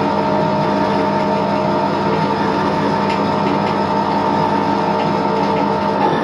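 Edgwick MK1 lathe running steadily at slow speed, a constant hum with a higher, steady whine from its drive.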